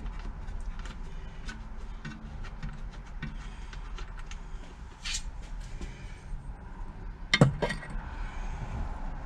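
Hand tools and metal parts clicking and clinking as a Briggs & Stratton engine is taken apart, with one loud sharp metallic knock about seven seconds in.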